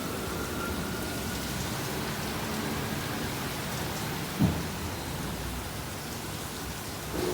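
Water spraying steadily onto a car in a Ryko Softgloss Maxx 5 automatic car wash, sounding like rain on the car, with a single thump about four seconds in.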